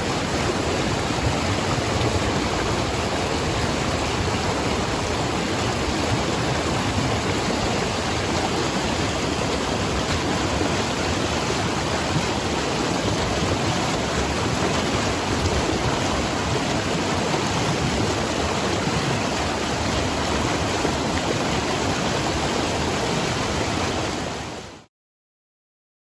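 Fast river water rushing steadily through pocket water, a constant even roar that fades out quickly near the end.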